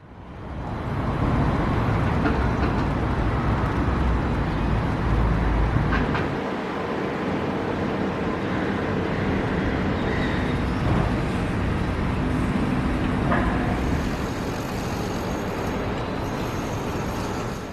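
A steady, rumbling wash of noise like road traffic, fading in over the first second and out at the end, with a few faint clicks along the way.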